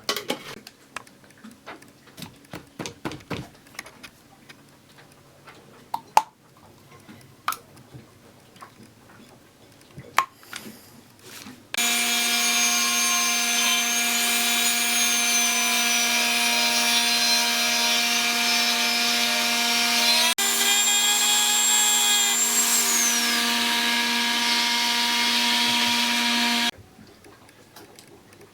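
Scattered light taps and knocks of tools on metal, then a Dremel rotary tool starts and runs with a steady whine for about fifteen seconds, briefly interrupted and dropping in pitch near the end. It is being used to work open the corroded housing of an electric trolling motor.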